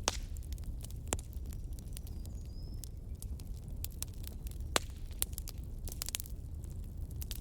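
Wood fire in a fireplace crackling: irregular sharp pops and snaps over a low steady rumble, with a faint brief high whistle a couple of seconds in.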